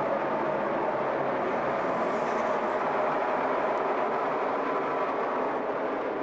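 NASCAR stock cars' V8 engines running at race speed on the track, a steady, dense engine drone from the field of cars.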